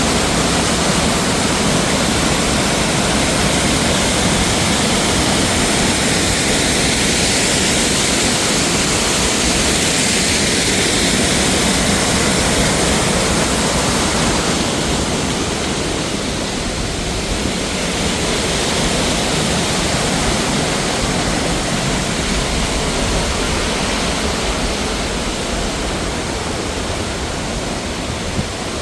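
Waterfall: a steady, loud rush of falling water, a little softer from about halfway through.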